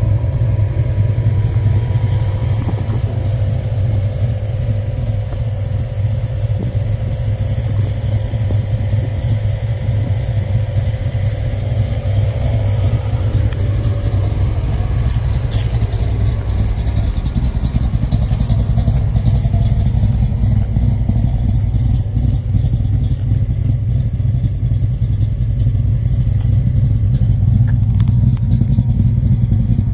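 1966 Chevrolet Bel Air wagon's big-block V8 idling steadily, a deep, even engine sound with no revving.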